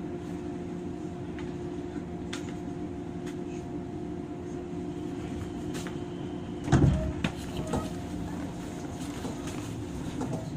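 Steady electrical hum of a stopped 103 series electric train's onboard equipment heard inside the car, with scattered light clicks and a louder thump about seven seconds in.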